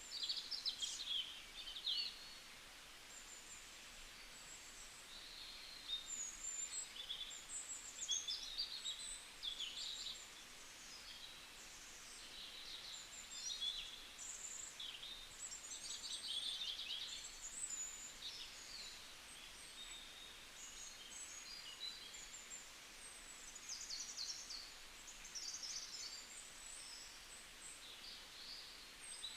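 Small birds chirping and twittering, many short high calls overlapping one another without a break, over a faint steady hiss.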